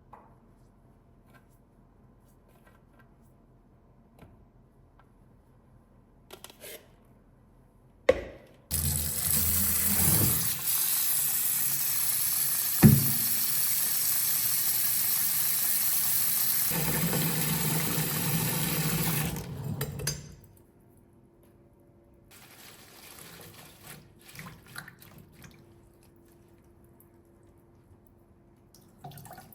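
Kitchen tap turned on with a click and water running steadily into the sink for about eleven seconds, its sound changing partway as something is held in the stream, then shut off. Light handling sounds follow.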